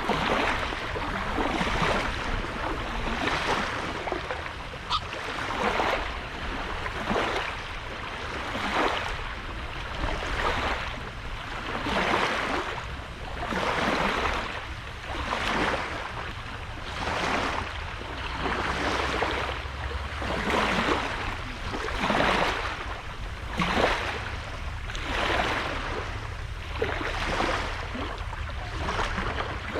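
Small sea waves breaking and washing up on a sandy beach, one swell of hiss every second or two, over a steady low rumble.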